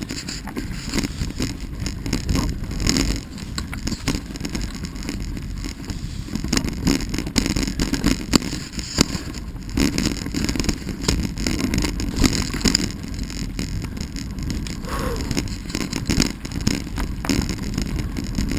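Steady rumble and rattle of riding over a rough dirt trail, with frequent small knocks and clatters and wind buffeting the microphone.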